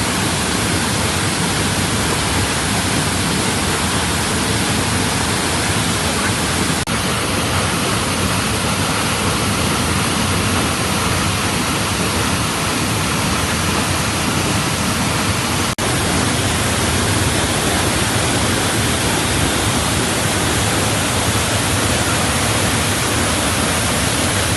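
A waterfall's water pouring steadily, a dense, even rush of noise that dips for an instant twice.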